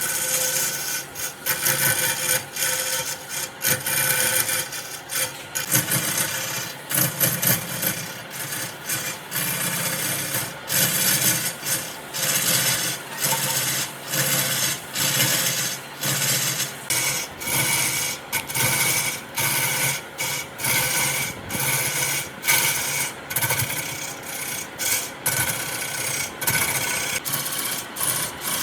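Wood being rasped or sanded by hand in repeated scraping strokes, about two a second with brief pauses. A faint steady hum runs underneath.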